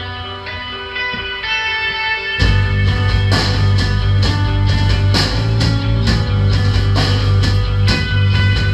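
Live rock band playing: ringing, sustained electric guitar notes, then about two and a half seconds in the full band comes in with a heavy low end and steady, regular drum hits.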